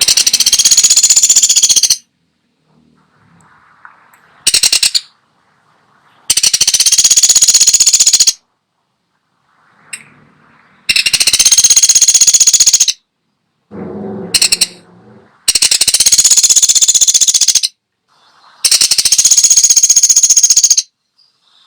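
Woodpecker (pelatuk sampit) giving loud, rapid rattling trill calls, each about two seconds long, repeated about five times with brief pauses between, plus a couple of short rattles.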